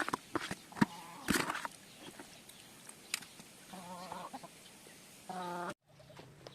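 A few sharp knocks and clatter in the first second and a half, then two short calls from domestic fowl, the second louder, about four and five seconds in.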